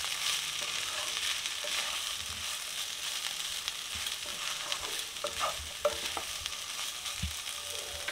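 Chicken, onion and bell pepper filling sizzling in a wok while a wooden spatula stirs it, with a steady frying hiss and scattered clicks and scrapes of the spatula against the pan.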